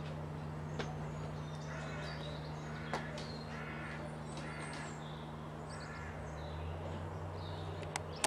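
Wild birds singing and calling, with high chirps and whistles and about four harsh, caw-like calls through the middle, over a steady low hum.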